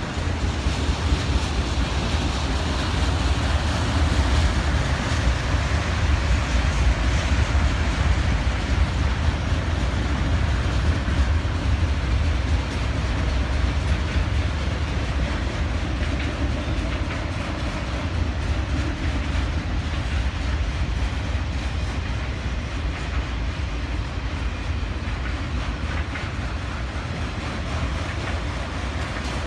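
Long freight train of autorack and intermodal cars rolling past on the rails: a steady loud rumble of wheels and cars, a little louder in the first half and easing slightly toward the end.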